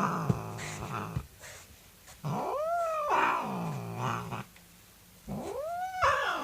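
A domestic cat growling: drawn-out yowls that rise and then fall in pitch, each sinking into a low rumbling growl. There are three in a row with short pauses between them, the last one still going at the end.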